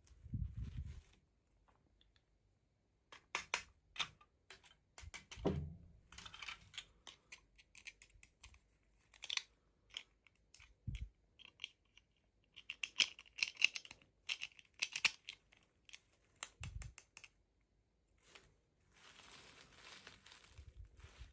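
Toy packaging being handled and opened by hand: irregular plastic crinkling, clicks and taps, with a few soft thumps, and a steadier rustle near the end.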